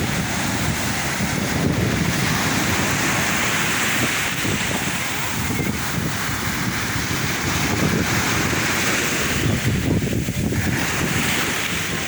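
Sea waves washing onto the shore, a steady rushing surf that swells and eases, with wind buffeting the microphone.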